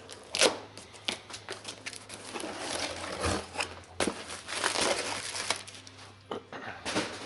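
Packaging crinkling and rustling as a clutch kit is unboxed, with a few sharp knocks among the rustles.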